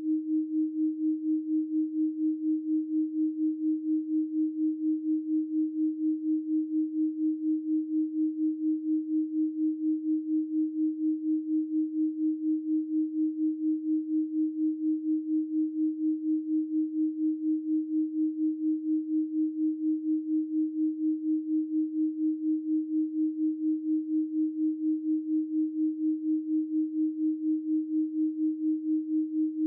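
A 312 Hz pure sine tone, held unbroken at one pitch, pulsing evenly in loudness several times a second.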